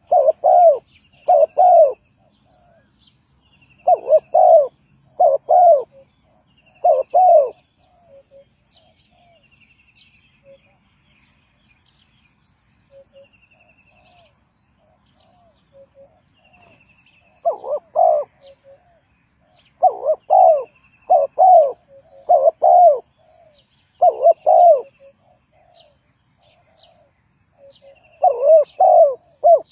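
Spotted dove cooing: low, loud coo phrases in groups of a few notes, with pauses of several seconds between groups, and faint high trilled chirps of a small bird in between.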